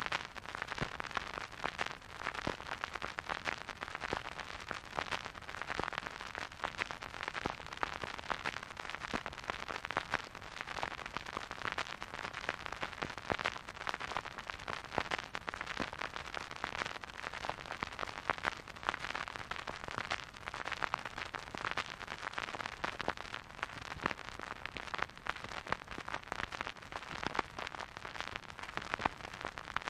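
Vinyl record surface noise from a spinning record player: a soft steady hiss with dense, irregular crackles and small pops.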